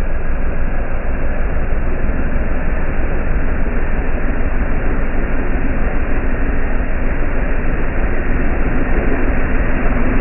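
Heavy diesel engine running steadily: a continuous loud rumble that holds an even level, with no revving.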